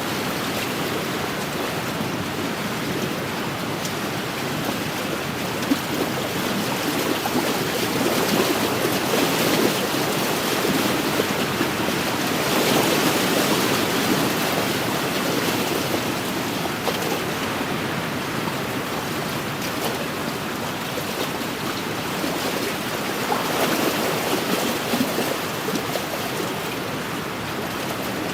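Small waves lapping and washing against a lakeshore in steady wind, swelling and easing every few seconds.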